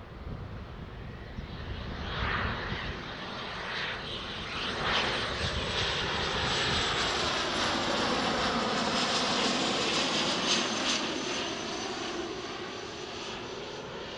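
Cessna 560 Citation V business jet passing close by, its twin turbofan engines (Pratt & Whitney Canada JT15D) rising to a loud rush with a high whine, then slowly fading away near the end.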